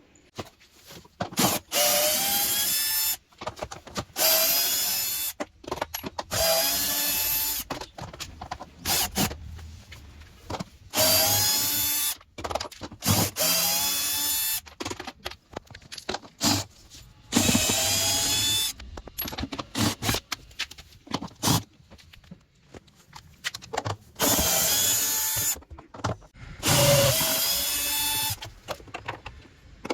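Electric power drill/driver running in about a dozen short bursts of one to two seconds. Its pitch rises as each run spins up. Between runs there are clicks and knocks of parts being handled.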